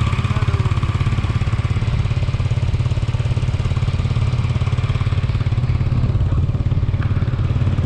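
Motorcycle engine running steadily with an even low pulse and no change in pitch.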